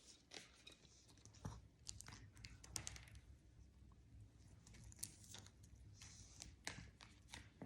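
Faint, scattered clicks and crinkles of stiff picture cards being handled and touched, over a faint low hum.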